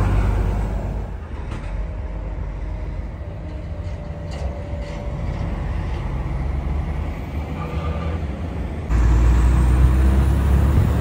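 Heavy truck's engine and road noise heard from inside the cab: a continuous low rumble that steps up suddenly and gets louder about nine seconds in.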